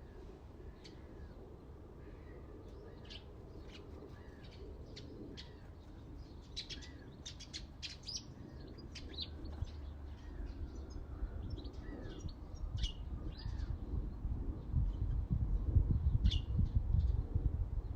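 Several small birds chirping and singing in short, quick notes. A low rumble grows louder in the last third and becomes the loudest sound.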